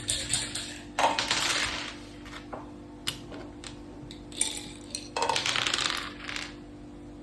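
Dice rattling as they are rolled onto a mak saka board, twice, each roll lasting about a second, with single clicks of game pieces being set down in between.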